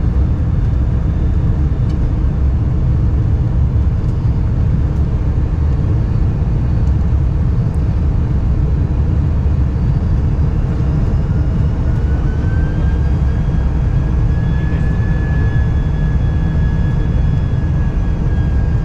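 Steady low rumble of a Boeing 747-400 airliner in flight, heard inside the cabin. A faint, thin whine rises a little in pitch about two-thirds of the way through and then holds.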